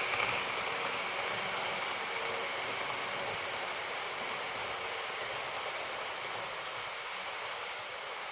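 HO-scale model train running on the track: a steady rushing of metal wheels on rails and the locomotive's motor, slowly fading.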